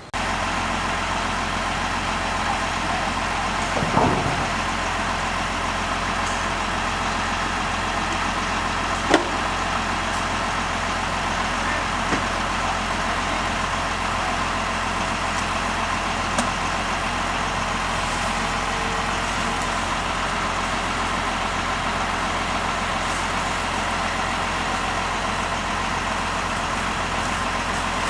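An engine running steadily at idle, with a brief thump about four seconds in and a sharp click about nine seconds in.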